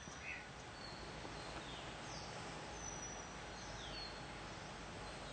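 Forest ambience: a steady hiss with a few faint, high bird calls scattered through it, short whistles and chirps, some falling in pitch.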